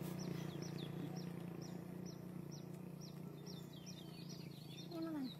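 Small birds chirping over and over, short falling chirps about three a second, over a steady low hum. Near the end a short animal call slides down in pitch.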